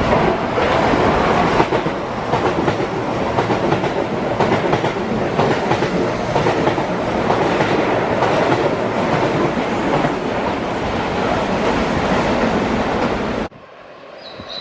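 Keihan Railway electric train passing close by, its wheels clattering steadily over the rail joints. The sound cuts off abruptly near the end.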